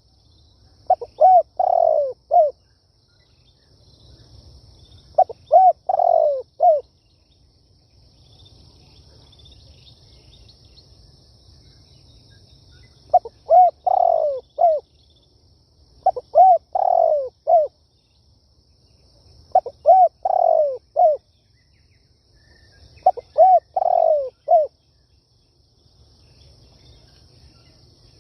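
Spotted dove cooing: six phrases of several coo notes each, a few seconds apart, with a longer gap in the middle. It is the cooing song that trappers play as a lure call.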